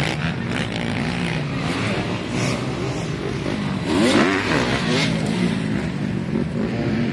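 Dirt bike engines running, with one revving up and down about four seconds in.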